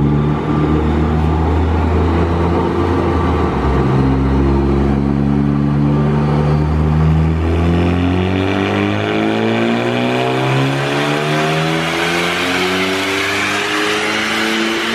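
Big-turbo Ford Focus ST's turbocharged 2.0-litre four-cylinder running on a chassis dyno. It holds a steady low note for about eight seconds, then the revs climb steadily through a wide-open-throttle pull.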